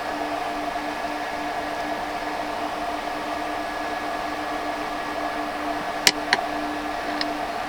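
Steady mechanical hum with a hiss from running equipment, broken by two sharp clicks about six seconds in.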